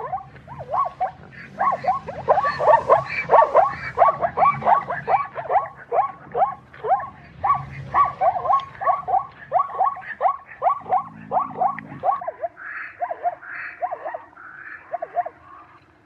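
Zebra calling: a long run of short, yelping barks, about three a second, each dropping in pitch, thinning to a few spaced calls near the end.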